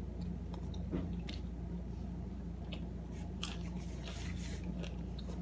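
Close-up chewing with short crisp crunches of tortilla chips, thickest from about three and a half to four and a half seconds in, over a steady low hum.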